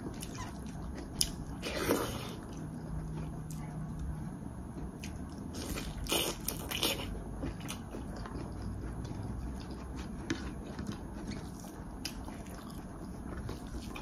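A person eating a meal of fried pork and rice: chewing and biting, with scattered small clicks and two louder crunchy bursts, about two seconds in and around six seconds in.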